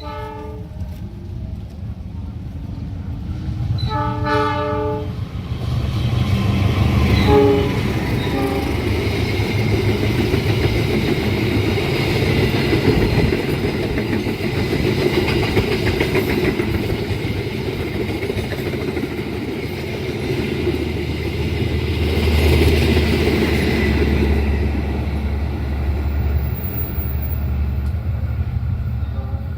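Train horn sounding several blasts, the loudest about four seconds in, then a long train passing close by: a steady rumble of locomotive and wheels with a rhythmic clatter over the rails.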